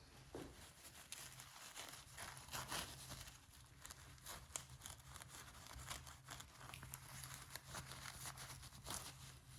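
Faint rustling and small scattered clicks of handling, over a faint steady low hum.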